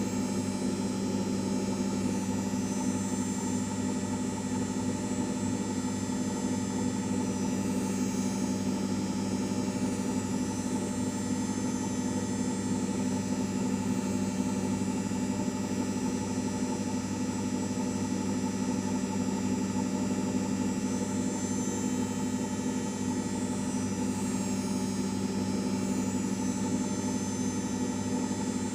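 LG 5 kg washing machine running with a steady, unchanging motor hum.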